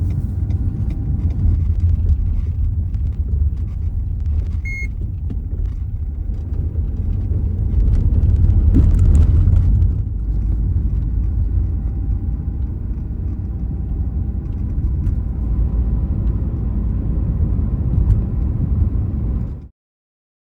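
Car driving along a road: a steady low rumble of engine and road noise, with a short high beep about five seconds in. It cuts off suddenly near the end.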